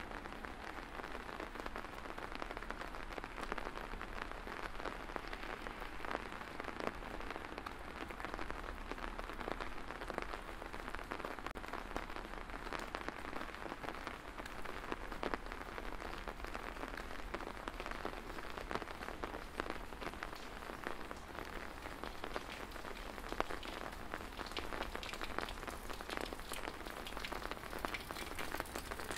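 Steady rain falling and pattering on hard surfaces, a dense crackle of drops over a faint low rumble. Near the end the drop hits grow sharper and more distinct.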